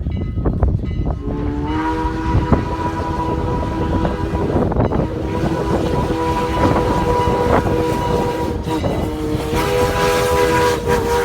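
Steam whistle of Strasburg Rail Road No. 89, a 2-6-0 steam locomotive, blowing one long chord of several tones that starts about a second in, sliding up briefly as it opens and shifting pitch slightly near the end. Under it the locomotive and train rumble steadily.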